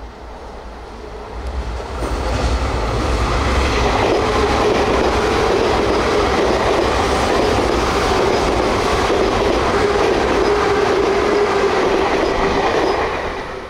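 Sotetsu 9000 series electric train passing close by: the wheels running on the rails with a steady low rumble and a steady hum. It swells about two seconds in, holds steady while the cars go by and falls away near the end.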